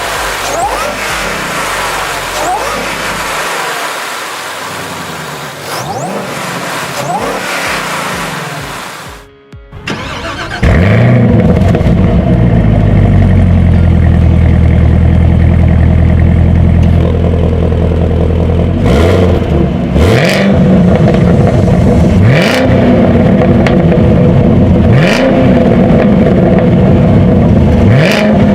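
Supercharged V8 sports-car engines in two clips. In the first, the engine revs with its pitch rising and falling. After a short drop-out about nine seconds in, a louder, deeper V8 idles and is blipped up in quick revs about five times.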